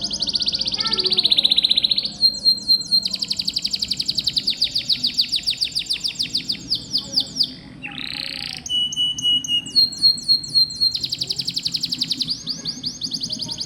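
Domestic canary singing a long, unbroken song of fast rolling trills, switching to a new trill every second or two, with a brief harsh rasping note about eight seconds in.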